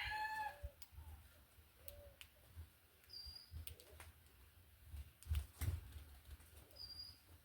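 Mixed birds at a feeder: a rooster's crow trails off in the first half second, followed by a few short, low calls, two brief high chirps, and scattered light knocks and wing flutters.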